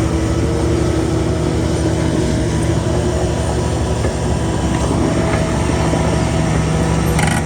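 Heavy diesel engine of earthmoving machinery running steadily, with a few sharp clicks near the end.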